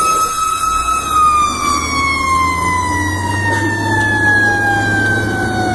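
Fire engine siren holding a steady high tone, then sliding slowly down in pitch over several seconds, over the low drone of the truck's engine.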